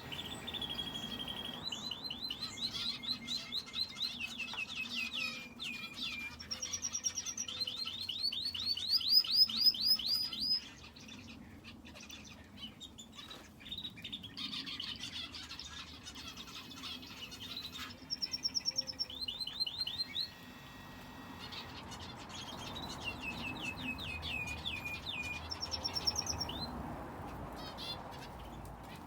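Aviary finches and a canary singing: runs of fast, repeated high chirps in trills lasting several seconds, broken by short pauses. The loudest trill ends about ten seconds in.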